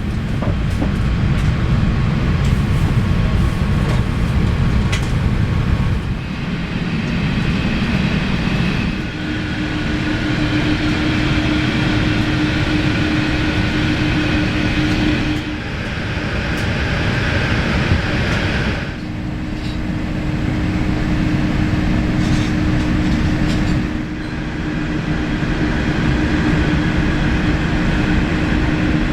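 Airbus A380 cabin noise: a steady low rumble of air conditioning and aircraft systems, with a constant hum that comes in about nine seconds in. It changes character abruptly several times.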